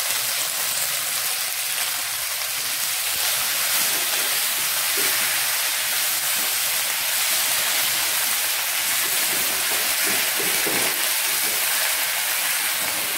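Fresh mint and curry leaves sizzling in hot oil in a metal pan while being stirred with a wooden spatula: a steady frying hiss as the leaves wilt down.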